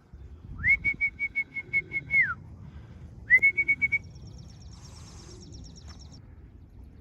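A person whistling a warbling call twice, a longer one and then a short one, each sliding up into a steady note, as a pigeon fancier calls his homing pigeons in to the loft. Then comes a fast, high, faint twitter.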